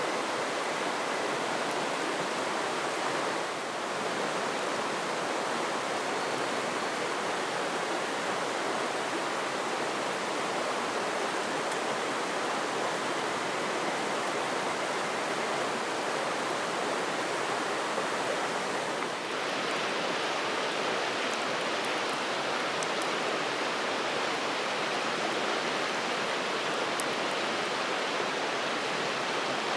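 River water rushing steadily, an even, unbroken wash of noise, with a few faint high ticks near the end.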